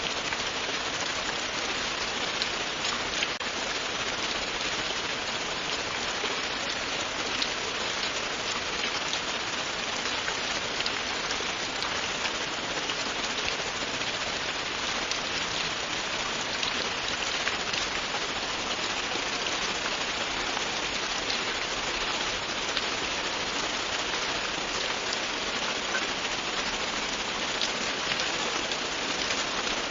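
Steady, continuous rain falling on a surface, an even hiss of many fine drop patters.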